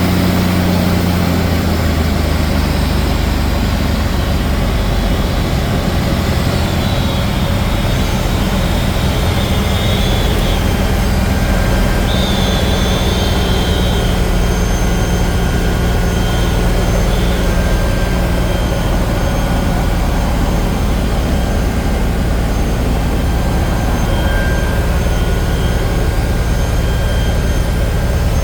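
A Cessna Bird Dog's piston engine and propeller running steadily during a landing approach, with a constant rush of air, heard from on board the aircraft.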